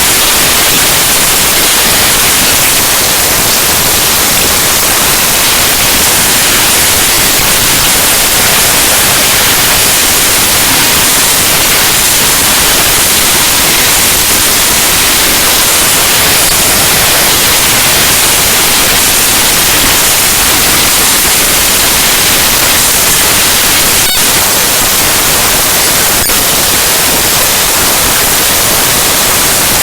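Loud, harsh static from the binary data of the Windows kernel file ntoskrnl.exe played as raw audio: a dense, steady hiss heaviest in the treble, with two brief glitches late on.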